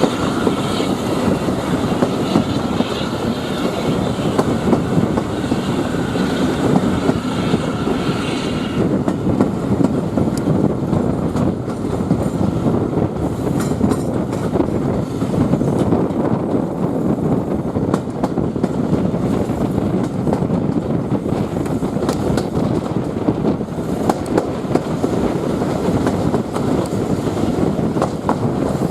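Railway carriage in motion, heard from on board: a steady rumble of wheels on the track with scattered clicks over rail joints. A faint high tone runs through the first eight seconds or so, then stops.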